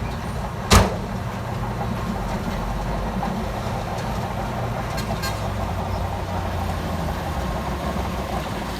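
Heavy earthmoving machinery's diesel engine running steadily, with one sharp loud bang about a second in.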